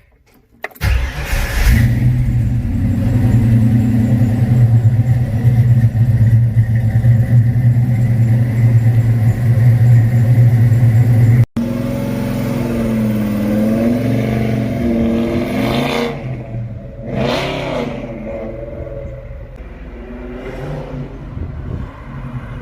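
A car engine turning over or running loudly, with a steady low drone for about ten seconds. After an abrupt cut about halfway, the pitch rises and falls.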